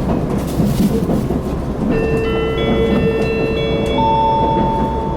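Steady running rumble inside a KiHa 261 series diesel express car, with an onboard chime of several held notes coming in one after another from about two seconds in: the signal that an announcement is about to follow.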